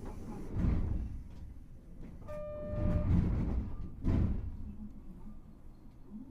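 Hankai Tramway car 351 heard from inside, three heavy low rumbles and thumps from the running gear and car body, about a second in, around three seconds and just after four seconds. A short beep sounds once about two seconds in.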